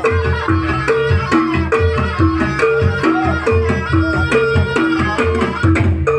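Traditional Javanese jaranan music played live: hand drums beating steadily under a repeating two-note figure, a higher note then a lower one, about once a second, with a busier melody above it.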